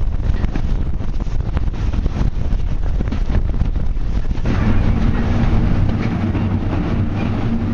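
Train ride heard from an open carriage window: wind buffeting the microphone over the rumble and clatter of the carriage wheels on the track. About four and a half seconds in, the buffeting gives way to a steadier hum with a held low tone.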